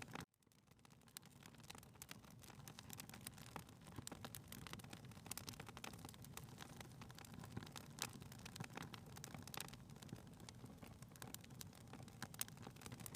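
Faint crackling of a wood fire in a fireplace: irregular snaps and pops over a low steady rumble. It drops out for a moment just after the start and fades back in.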